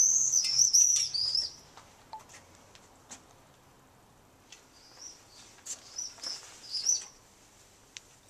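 A small bird singing in high, warbling chirps: a run of phrases over the first second and a half, then short chirps again between about four and a half and seven seconds in.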